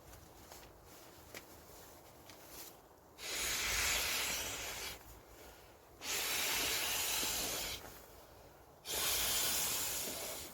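Three long hissing rushes of air, each lasting about two seconds, coming roughly three seconds apart.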